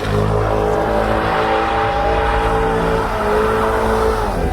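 Car engine running loudly at steady, held revs, its pitch easing down slightly about three seconds in.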